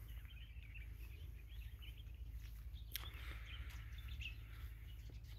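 Faint outdoor ambience of scattered short bird chirps over a low steady background rumble, with a single sharp click about three seconds in.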